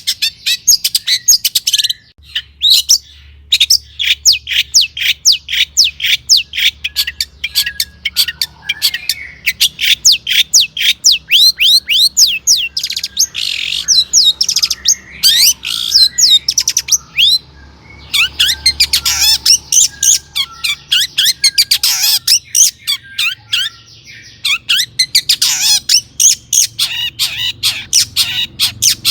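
Long-tailed shrike (cendet) singing in full song: a fast, unbroken run of sharp, sweeping high chirps, broken only by a few brief pauses.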